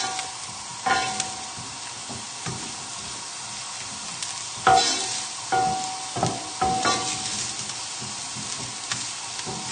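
Diced chorizo, shallots and garlic sizzling lightly in oil in a frying pan, stirred with a wooden spoon that scrapes and knocks against the pan now and then. The light sizzle is the sign that the pan has come up to heat and the chorizo is releasing its oil.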